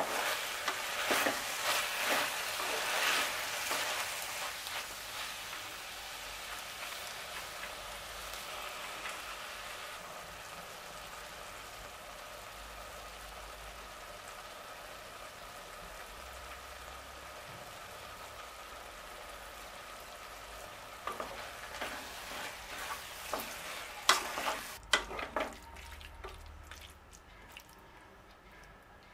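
Food frying in hot oil in a cooking pot, sizzling steadily, loudest for the first few seconds and then settling. A spoon stirs and scrapes against the pot at the start and again several times near the end.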